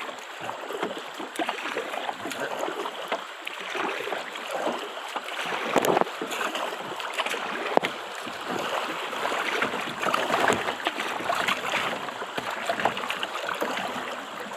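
River water rushing and splashing around a kayak, with a couple of sharp knocks, the clearest about six and eight seconds in.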